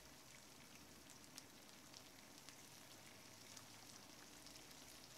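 Near silence: a faint sizzle of lamb liver and spices frying in oil in the pan, with scattered tiny pops.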